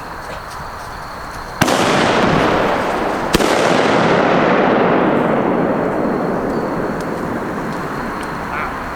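Homemade aerial fireworks shell going off: a sharp crack about a second and a half in, a second sharp crack a couple of seconds later, then a long rushing noise that slowly fades.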